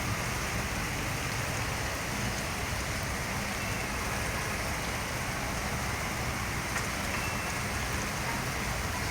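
Heavy rain pouring down steadily, an even hiss of drops on surfaces with a few faint ticks of single drops.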